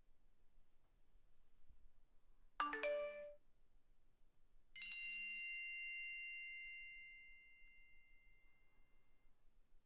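Two phone alert tones: about two and a half seconds in, a short chime of a few quick rising notes, then nearly two seconds later a bright bell-like ding that rings on for about four seconds as it fades.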